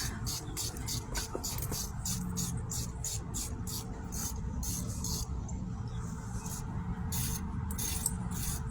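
Rhythmic rasping strokes, about three a second, pausing briefly past the middle, over a steady low rumble.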